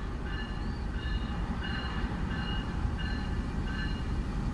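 Diesel-electric passenger locomotive approaching slowly on the track beside the platform, its engine and wheels giving a steady low rumble that grows slightly louder. A faint high chirp repeats about every two-thirds of a second over it.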